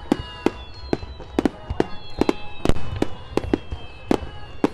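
Aerial fireworks display: shells bursting in a rapid, irregular barrage of sharp bangs, more than a dozen in under five seconds, several a second at times.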